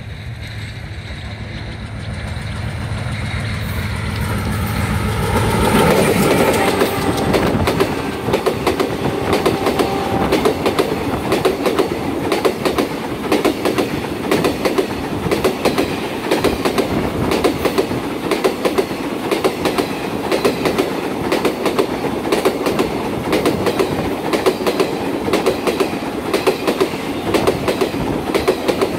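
A long passenger train approaching and passing close by at speed. The locomotive's engine drone builds over the first few seconds and peaks about six seconds in as it goes by. After that the coach wheels clatter rapidly over the rail joints in a steady clickety-clack.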